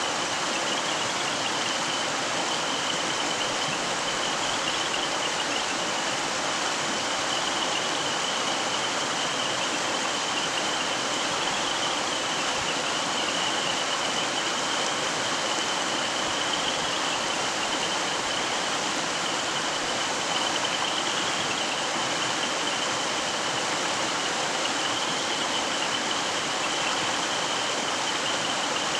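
Mountain stream flowing: a steady, even rush of running water, with a steady high-pitched tone running over it.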